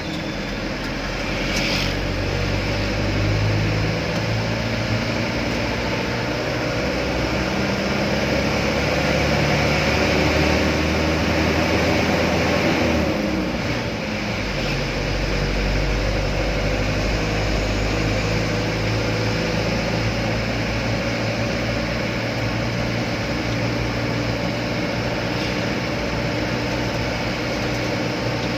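Laden truck's engine running steadily on the move. About halfway through, its note briefly shifts in pitch and dips in level before settling again.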